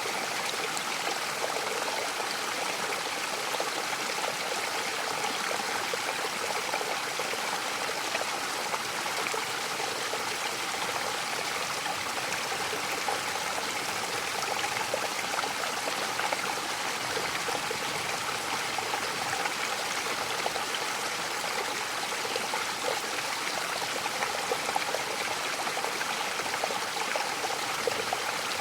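Mountain waterfall: running water splashing and rushing in a steady, even hiss, with light flickers of spatter but no change in level.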